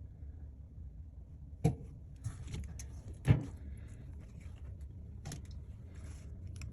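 Small handling noises on a workbench: a few sharp clicks and knocks, the loudest about three seconds in, over a low steady hum.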